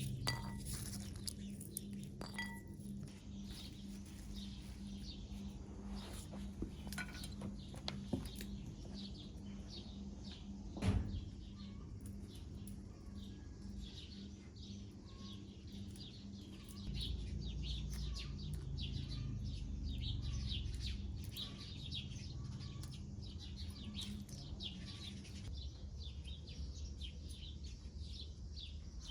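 Small birds chirping busily throughout, with a single knock about eleven seconds in and a low rumble for a few seconds past the middle, over a steady low hum.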